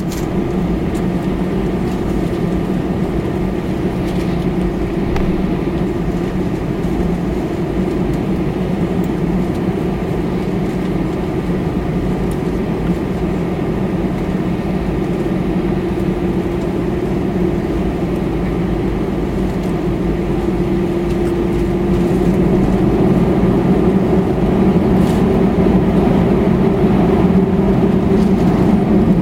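Airbus A319 jet engines heard from inside the passenger cabin: a steady rumble with a low hum, growing louder about three-quarters of the way through.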